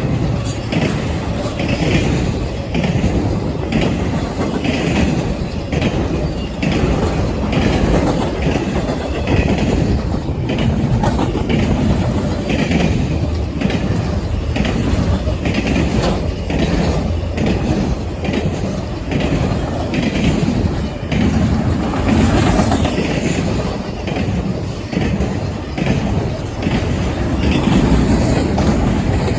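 Intermodal freight train rolling past, its wheels clattering over the interlocking's rail joints and switches in a steady repeating rhythm.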